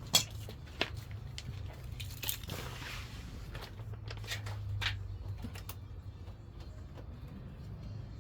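Turbocharged Honda Civic engine idling steadily while warming up, a low even hum, with scattered sharp clicks and short rustling noises, the loudest a click right at the start.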